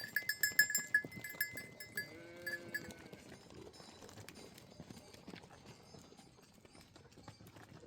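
Livestock bells jingling quickly for about the first second, then a short bleat of a sheep or goat a little after two seconds in. Faint scattered clicks and rustling follow.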